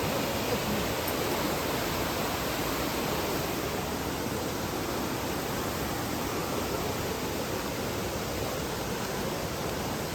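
Fast-flowing mountain stream rushing steadily, its current very strong.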